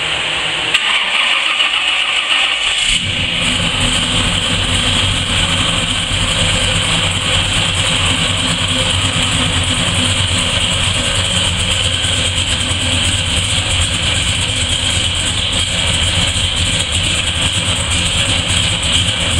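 Modified 454 big-block Chevrolet V8 in a 1967 Impala fastback starting up. It fires about three seconds in, then settles into a steady idle.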